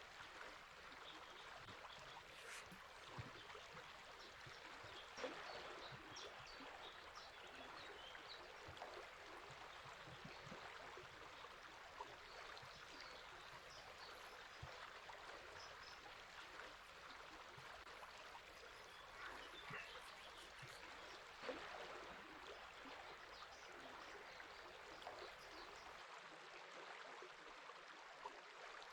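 A river flowing steadily, its water noise faint, with scattered short bird chirps over it.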